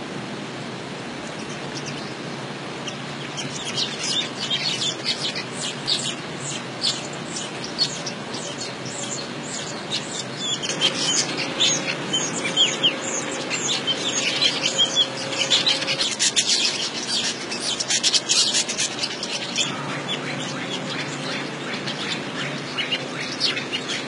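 Weaver birds chattering: rapid, high chirps that start a few seconds in and come thick and fast, over a steady background hiss.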